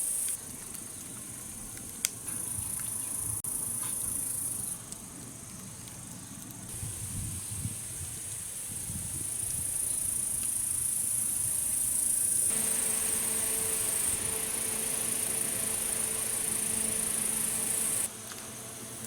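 Steady, high-pitched chirring of an insect chorus, cutting in and out abruptly several times. A faint low hum joins about two-thirds of the way in.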